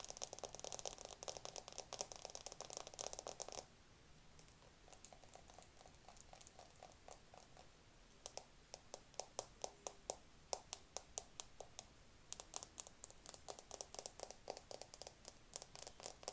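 Fingertip tapping on a camera close to the microphone: a dense, fast flurry of taps for the first few seconds, then lighter, sparser taps, separate crisp taps from about halfway, and a fast run again near the end.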